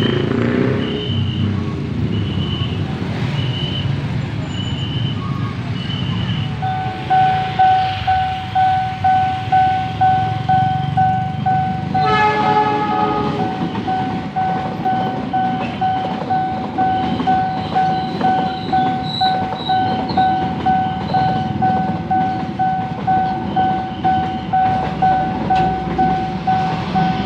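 Railroad crossing warning bell ringing in a steady pulse about one and a half times a second, starting about six seconds in, over a low rumble of road traffic. About halfway through comes a short train horn blast about a second long. High, regular beeps sound in the first few seconds.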